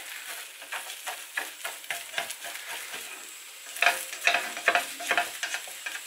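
Slotted spatula scraping and knocking around the edge of a frying pan as it tucks in the setting edges of a potato-and-egg tortilla, over a low sizzle of the omelette cooking in oil on gentle heat. The scrapes come thickest and loudest about four seconds in.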